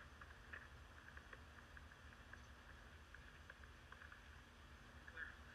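Near silence: a faint steady low hum with scattered faint light ticks.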